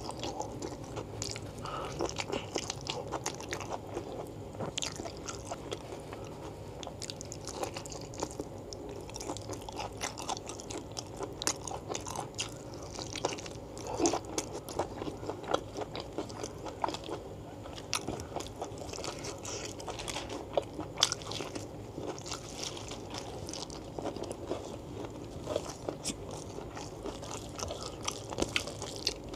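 Close-miked eating sounds: chewing and biting of soft, gelatinous beef foot tendon and fat with rice, heard as dense, irregular wet clicks and occasional crunches. A few louder bites stand out. Fingers squish rice into the curry on a banana leaf.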